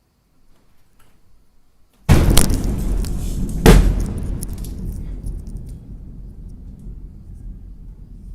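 Burning pyrotechnics exploding: a sudden blast with crackling pops about two seconds in, a second, louder bang about a second and a half later, then a deep rumble that slowly fades.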